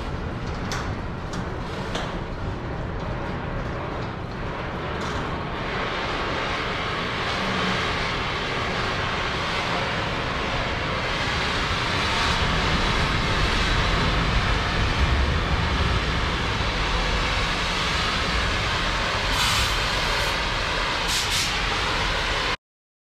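Strong wind buffeting the microphone, a steady rumbling rush that grows brighter and a little louder after about five seconds, with a few faint clicks early on; it cuts off abruptly just before the end.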